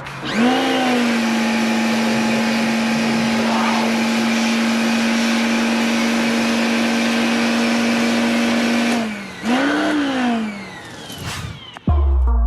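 A motor spins up quickly and holds one steady high pitch for about eight and a half seconds over a loud hiss. It then drops, is brought up and down once more, and dies away.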